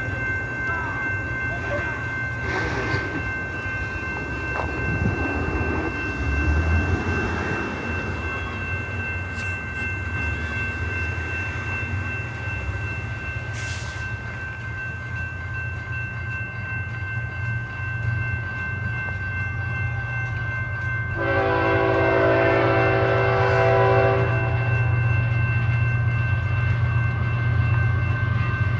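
Train running by with a steady low rumble. About 21 seconds in, its horn sounds one chord-like blast of about three seconds, the loudest sound here.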